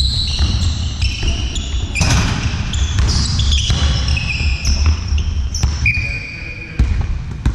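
Indoor ball game in a reverberant sports hall: trainers squeaking in short high chirps on the court floor, with a ball bouncing now and then.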